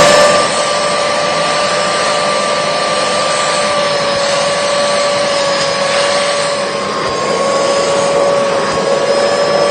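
Carpet-cleaning extraction machine's vacuum motor running with a steady whine, sucking dirty water out of a soaked mat.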